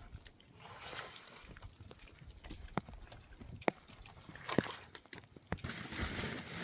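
A few scattered sharp knocks or clicks over a faint outdoor background, then a steady hiss of noise that starts near the end.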